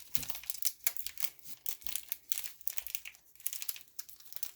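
Baseball card pack wrapper crinkling and tearing as it is opened by hand, a quick irregular run of crackles.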